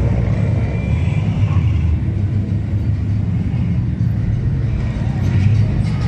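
Steady low rumble of truck engines running during a truck caravan.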